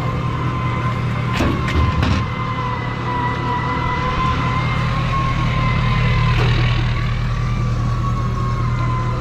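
Container truck running, a low engine drone with a steady high whine over it throughout, likely while loading the dumpster. A few clanks come between one and two seconds in.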